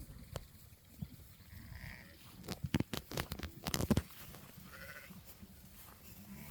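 Sheep bleating, with a short call about five seconds in. In the middle there is a quick run of sharp knocks and clatter, the loudest sound.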